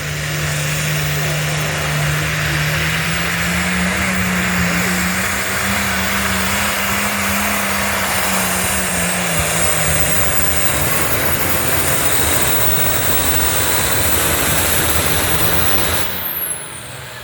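Altered farm-class pulling tractor's engine running hard under heavy load as it drags the sled down the track. The loud, steady engine note climbs a little midway, then eases back and drops away near the end.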